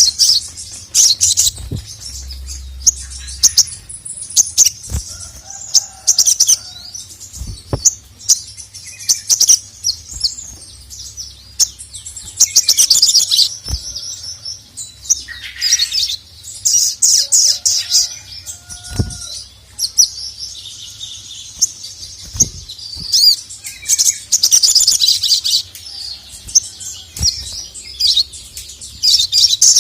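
A sogon (sogok ontong, the little spiderhunter) singing loud, fast, high trilled chirping phrases in bursts with short gaps, in the full, agitated song of a male. Sharp knocks sound every few seconds.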